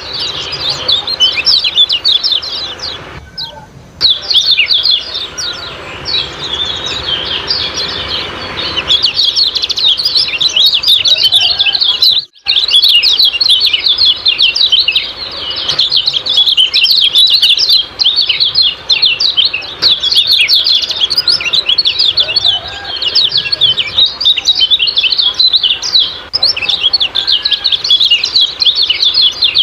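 Kecial kuning birds giving their rapid, high 'ciak-ciak' chattering calls, a dense, continuous stream of chirps used as a lure recording to set caged birds singing. The chatter dips briefly a few seconds in and cuts out for an instant about twelve seconds in.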